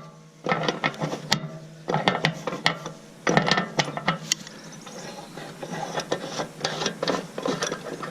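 Ratchet spanner clicking in quick runs, several bursts of sharp ticks, as it works the nuts on a grassland roller's bearing housing, over a steady low hum.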